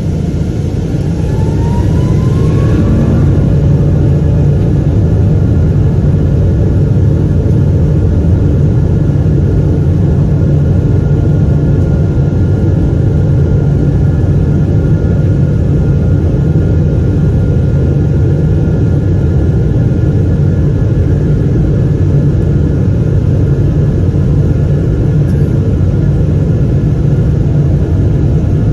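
Rolls-Royce Trent 800 turbofans of a Boeing 777-200ER heard from inside the cabin, spooling up to takeoff thrust with a rising whine over the first few seconds. They then run loud and steady, with a deep rumble and a steady whine.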